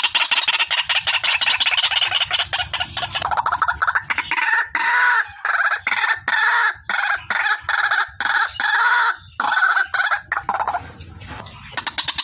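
Female white-breasted waterhen (ruak-ruak) calling. A fast, continuous run of harsh notes in the first few seconds gives way to a series of separate calls with short gaps between them.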